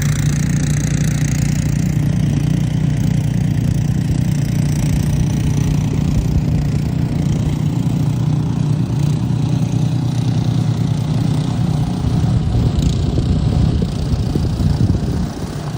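An engine running steadily, with a constant low hum under an even rushing noise.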